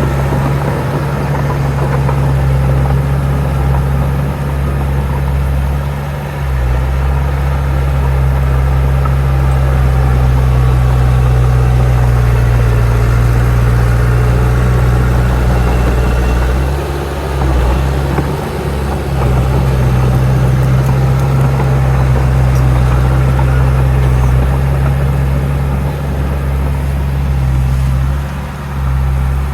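Heavy earthmoving machine's diesel engine running steadily at work, with a low, even drone and a few brief dips in engine speed, about six seconds in, around seventeen to nineteen seconds, and near the end.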